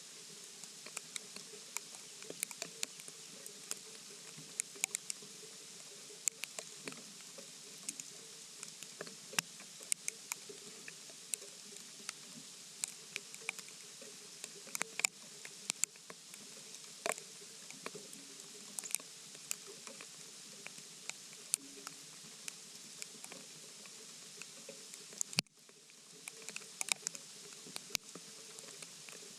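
Irregular light ticks and taps over a steady hiss.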